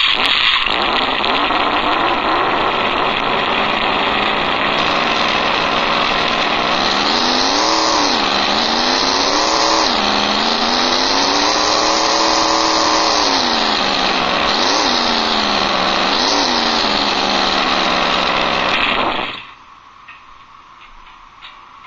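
Recorded old-school Ford 302 V8 engine sound played back from a model-car sound unit through a single speaker, the 302 being as the maker recalls it. It idles, then is revved up and back down: short revs about 8 and 10 seconds in, a longer one around 12 seconds, and two more short blips near 15 and 16 seconds. It cuts off suddenly a few seconds before the end.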